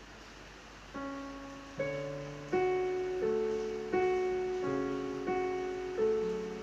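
Slow piano music. After a quiet first second, notes or chords are struck about once every three-quarters of a second, each ringing on and fading.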